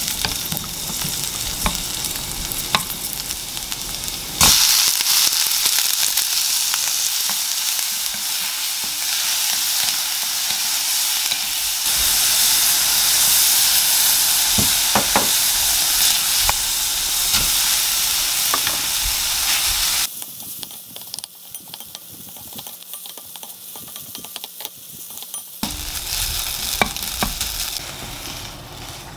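Garlic slices and then squid and other seafood frying in olive oil in a frying pan, sizzling steadily while a wooden spoon stirs and taps against the pan. The sizzle grows much louder about four seconds in and stops about twenty seconds in, leaving quieter scraping of the spoon as the food is moved into a bowl.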